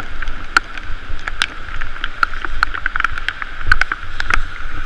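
Bicycle riding through rain on a soaked road: a steady hiss of tyres and falling rain, with many irregular sharp ticks of raindrops striking the camera housing, and wind rumbling on the microphone.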